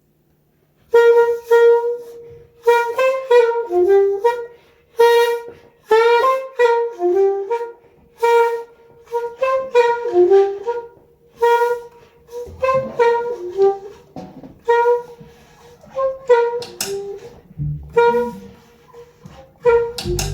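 A wind instrument plays a jazz tune in short phrases that keep returning to the same note, starting about a second in. Softer low notes come in beneath it in the second half.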